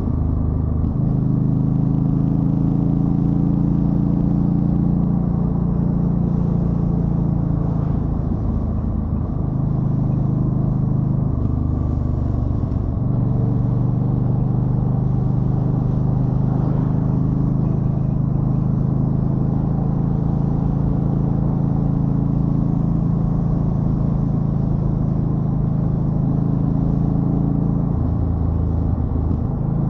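2013 Yamaha Stryker V-twin engine running steadily under way, a low drone. The engine note changes briefly a few times: around eight seconds in, around twelve seconds in, and near the end.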